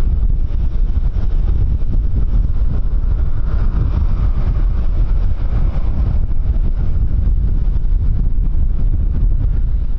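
A jet aircraft's engines passing, with a whine that swells and fades in the middle, over a heavy rumble of wind on the microphone.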